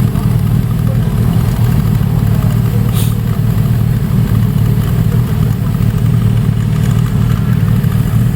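Motorcycle engines running at low speed as bikes roll in, a steady low drone throughout. A brief sharp noise about three seconds in.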